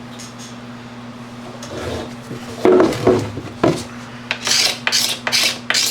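Hand rubbing strokes across a plastic motocross gas tank as the surface is worked down, a few handling knocks about halfway through, then steady back-and-forth strokes at about two to three a second. A steady low hum runs underneath.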